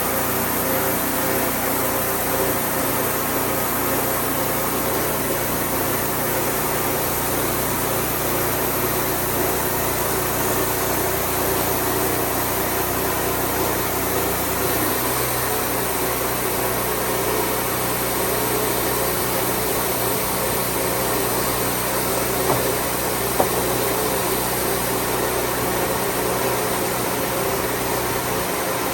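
Wood-Mizer band sawmill's engine running steadily, its pitch shifting about halfway through, with two small knocks a little later.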